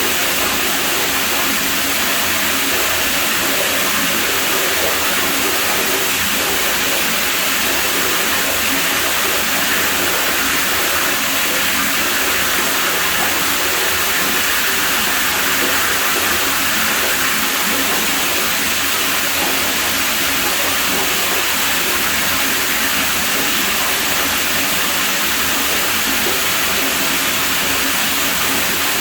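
Water flowing steadily at a pool, an even, unbroken rushing hiss with no change in level.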